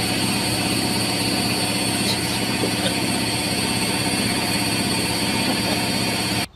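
Steady machine noise: a motor or engine running evenly with several steady tones over a rushing haze, cutting off suddenly near the end.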